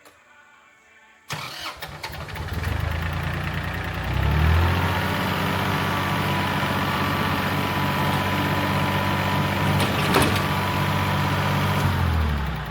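Tractor engine starting about a second in, running unevenly at first, then picking up speed and running steadily. A sharp click comes near the end, and the engine note drops just before the end.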